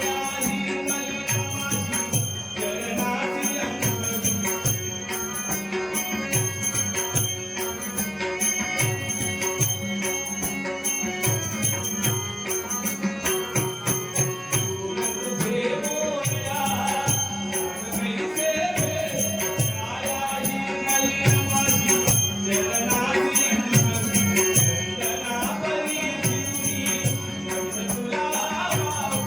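Devotional Shri Ganesh stavan performed live: a steady drum beat with jingling small cymbals under a sustained drone, and a singer's voice gliding up and down in places.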